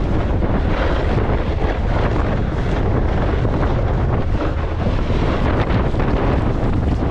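Strong wind buffeting the microphone: a loud, steady rush of noise, heaviest in the low rumble.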